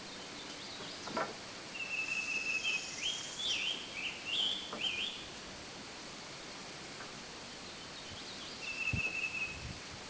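A songbird singing: a held thin whistle followed by a run of quick rising and falling notes, then another held whistle near the end. A couple of soft low knocks come near the end.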